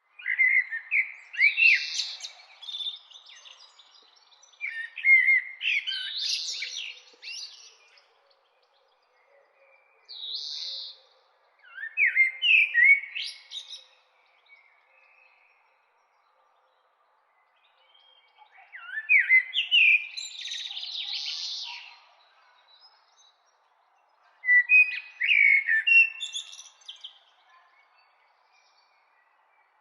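Bird song: six bursts of quick, rising chirps and whistles with pauses of a few seconds between them.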